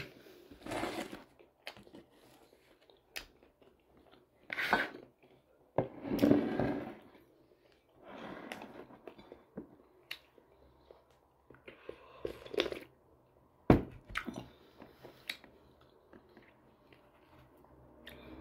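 Close-up chewing and biting of a bread sandwich topped with tomato slices, in irregular bursts of wet mouth sounds and small crunches. A single sharp click stands out about three quarters of the way through.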